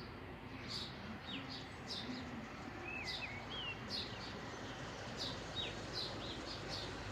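Small birds chirping: many short, high calls a few times a second, with a few sliding whistled notes, over a steady background noise.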